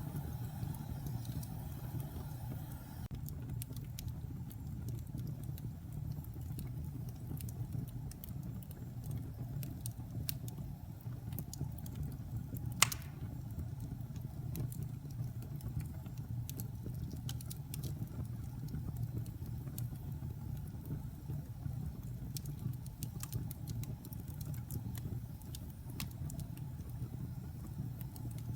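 Wood fire burning in a fireplace: a steady low rumble of the flames with scattered crackles of the burning wood, and one loud sharp pop a little under halfway through.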